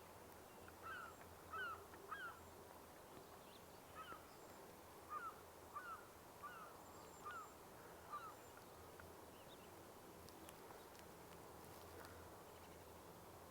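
Canada geese honking faintly: a string of short honks, roughly one or two a second, that stops about eight seconds in.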